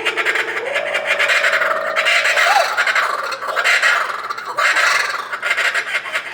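Several laughing kookaburras calling together in a loud cackling chorus that swells and fades in waves.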